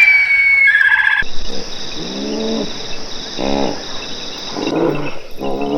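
Animal calls: a short run of high chirps, then, after an abrupt change about a second in, three lower calls over a steady high-pitched drone.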